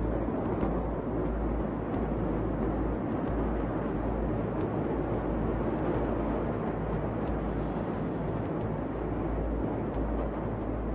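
Steady loud rumbling noise of an outdoor recording, with a few faint ticks.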